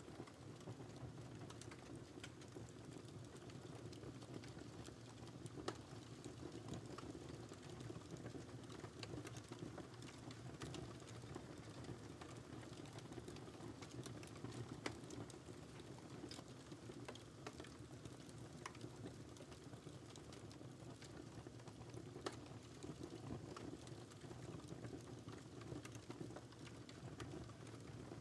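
Quiet wood fire crackling: irregular small snaps and pops over a steady low rush of flames, with a few sharper pops about 6, 15 and 22 seconds in.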